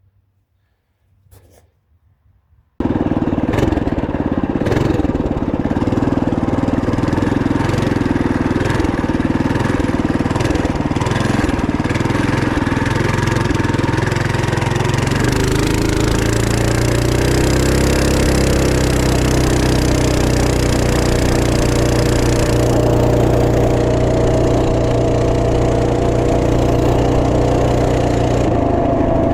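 Near silence for the first few seconds, then a Trail Master MB200 minibike's Ace Up 212cc single-cylinder engine comes in loud under way, rough and noisy at first. About halfway its pitch climbs and then settles into a steady, even speed.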